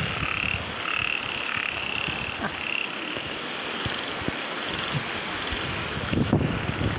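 Frogs calling, a run of short repeated calls that die away about three seconds in, over a steady hiss. Near the end, wind rumbles on the microphone.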